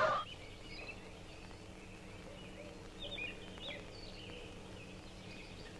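Faint bird chirps: a few short calls, most of them about three to four seconds in, over a low steady hiss.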